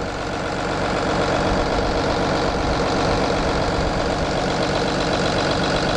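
Cummins ISB 6.7-litre inline-six turbodiesel running steadily at idle.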